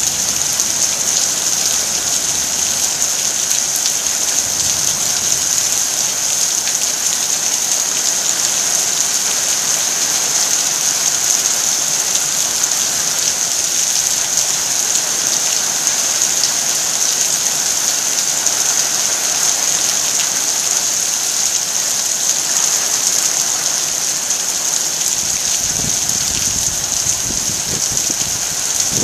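Heavy rain pouring down steadily, a dense even hiss of drops. A low rumble joins in near the end.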